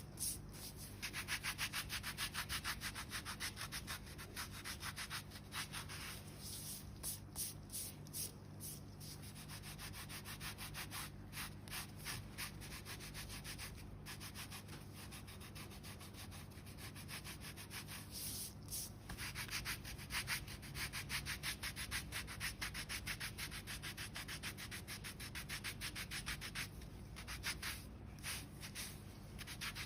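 A foot file rasping over hard, callused skin on the sole of a foot in rapid back-and-forth strokes, with a few short pauses.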